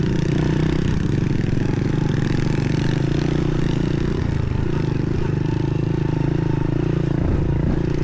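Small pit bike engine running steadily at a fairly even speed, with slight changes in pitch partway through.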